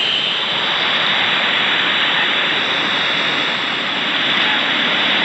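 Steady rush of a waterfall pouring into a mountain stream pool, a constant loud hiss of falling water.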